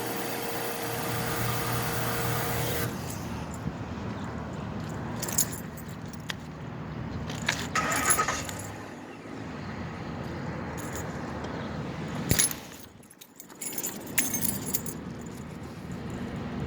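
A steady mechanical hum with a held tone cuts off about three seconds in. Scattered metallic jingles and sharp clicks follow.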